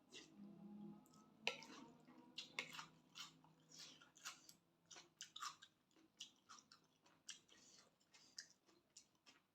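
A person eating close to the microphone: soft chewing with irregular wet mouth clicks and small crunches.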